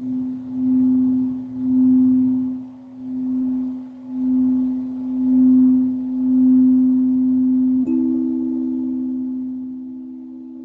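Singing bowl ringing one steady low tone that swells and fades about once a second. About eight seconds in a second, slightly higher tone joins it.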